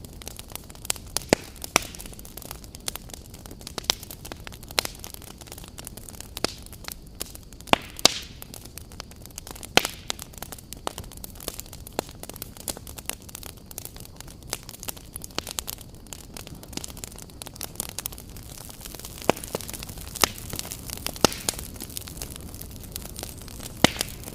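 Wood fire crackling: a steady low hiss of burning logs with frequent sharp, irregular pops and snaps.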